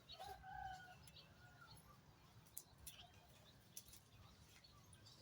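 Near silence with faint bird calls, one held for under a second at the start, and a few faint clicks in the middle.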